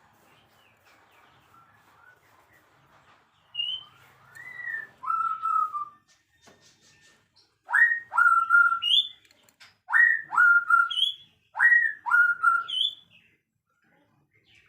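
A songbird singing clear whistled phrases: a few loose notes, then the same short phrase three times, each a quick upward sweep settling on a held note.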